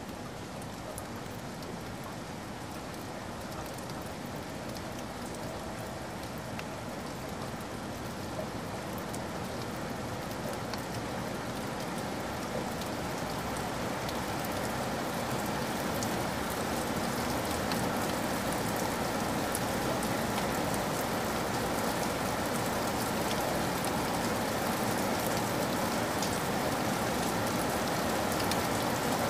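Steady rain-like patter: an even hiss sprinkled with fine drop ticks, slowly growing louder.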